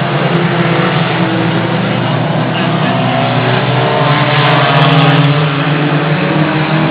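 Race car engines running, a loud steady engine noise that holds throughout without clear passes or pauses.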